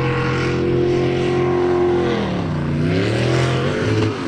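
Jet sprint boat's engine running at high, steady revs, then coming off the throttle with a sharp drop in pitch about halfway through. It revs back up briefly, then winds down again near the end.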